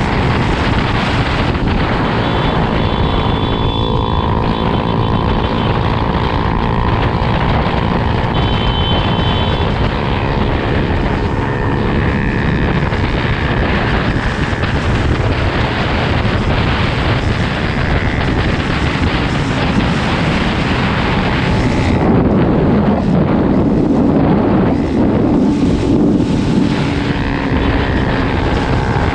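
Motocross bike engine running under way, mixed with loud wind rush on the microphone; the engine swells somewhat louder about two-thirds of the way through.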